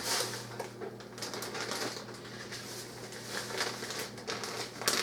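Bag of O'Brien diced potatoes being emptied into a soup pot: the plastic bag crinkling as the potato pieces patter and clatter in, in an irregular run of small clicks and rustles.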